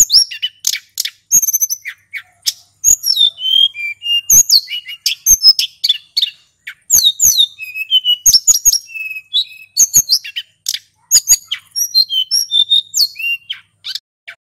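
Male sulingan gunung singing in a fast, unbroken run of high chirps and gliding whistled notes, with short sharp clicks among them. The song stops shortly before the end.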